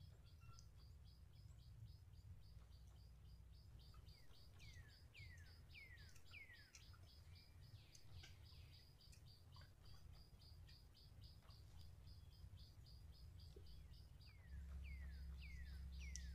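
Faint forest birdsong: a bird gives a run of quick, sharply falling whistled notes, twice, over a steady high ticking call repeated about three or four times a second. A low rumble gets louder near the end.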